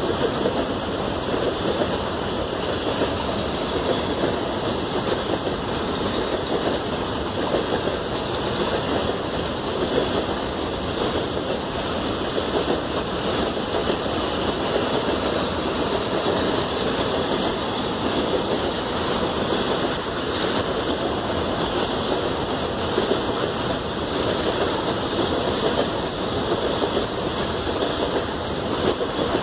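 Train running on the rails, a steady unbroken running noise.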